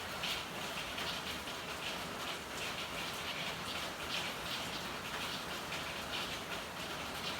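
Steady rain: an even hiss with many drops spattering several times a second.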